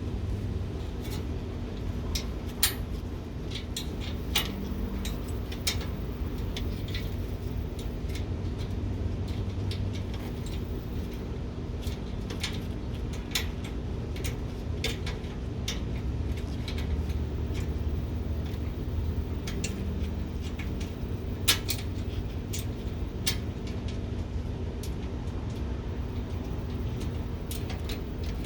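Scattered sharp metallic clicks and clinks, irregular and a few seconds apart, as bolts, washers and mounting brackets for truck running boards are handled and fitted, over a steady low rumble.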